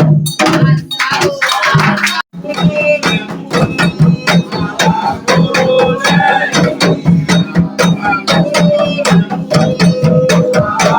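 Percussion-led music: hand drums play a fast, steady beat with sharp clicking strokes, and a melodic line runs over it. The music drops out for a moment about two seconds in, then resumes.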